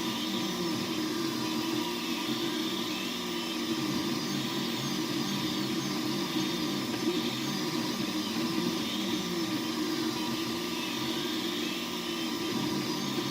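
3D printer running, its stepper motors whining in short rising and falling pitches as the axes move, over a steady mechanical hum.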